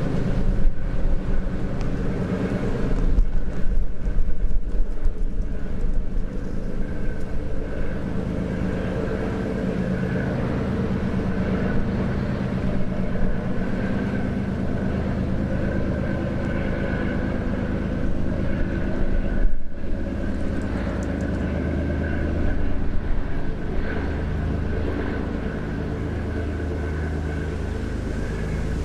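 Engine of a river sand-carrying boat running steadily, a low droning hum. Gusts of wind buffet the microphone, most strongly in the first few seconds.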